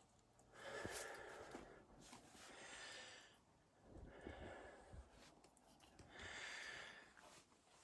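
A person's slow, heavy breathing close to the microphone, faint: about four breaths, each a soft rushing swell, a couple of seconds apart, as he rests.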